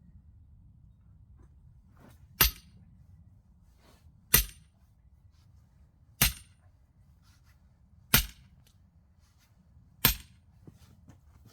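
Axe striking a knotty oak log five times, about two seconds apart, each blow a sharp crack.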